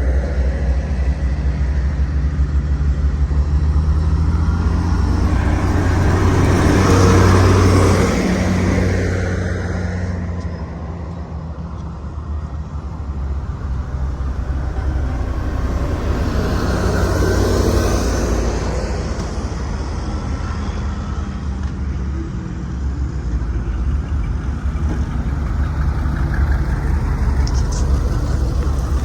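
Heavy diesel engine of a Sakai road roller running steadily with a deep, low drone. It grows louder around seven seconds in and again around seventeen seconds, as if the machine swings close by, then eases back.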